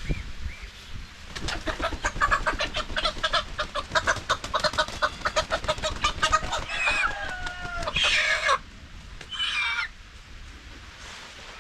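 Chickens cackling rapidly in a long agitated run, then a few drawn-out falling squawks and two loud harsh squawks near the end.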